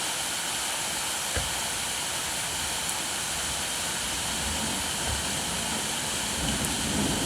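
Steady rain falling, an even hiss with a single sharp tap about a second and a half in. A soft low rumble swells in the second half.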